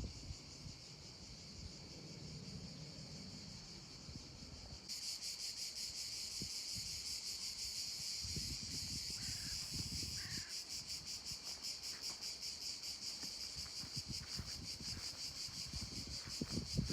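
A chorus of insects chirring in a fast, even pulse, which gets noticeably louder about five seconds in, with a few low thumps underneath.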